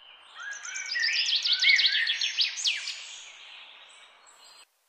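Birds chirping: a quick run of many short, downward-sweeping chirps, loudest in the first half, then fading and cutting off abruptly near the end.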